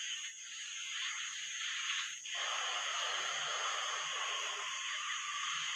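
Storm noise: a steady rush of wind and rain that grows louder and fuller about two seconds in.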